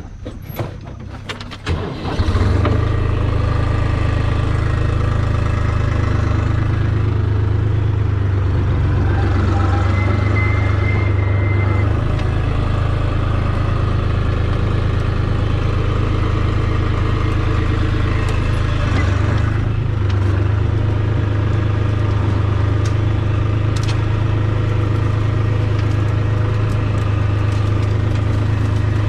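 Tractor engine starting up about two seconds in, after a few knocks, then running steadily at an even speed.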